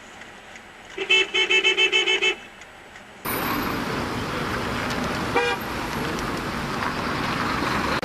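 A car horn beeping in a rapid string of about nine short toots over a little more than a second. It is followed by a sudden switch to steady road and traffic noise.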